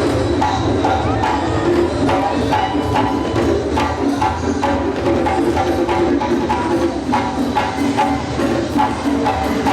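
Live African percussion ensemble playing a fast, driving rhythm: drums under a repeating woody clicking pattern and short pitched notes, with no break.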